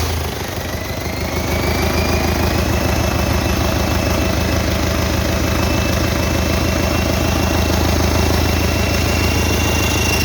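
MMZ D-245 four-cylinder turbo diesel idling just after a start following a full overhaul, with a steady low knock of its firing strokes. A thin high whine rises in pitch over the first few seconds, then holds steady.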